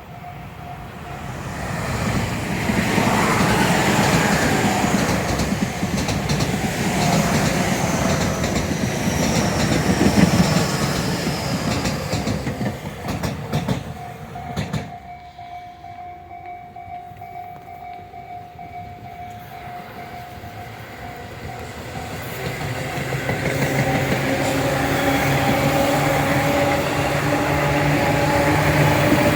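Tobu Tojo Line train passing on the track, loud wheel and rail noise with clickety-clack that dies down about halfway. Near the end a hum with several steady tones rises and grows louder.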